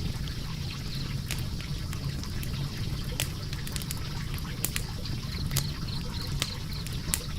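Logs burning in a fireplace: a steady low rumble and hiss of the flames, with sharp crackles and pops at irregular moments.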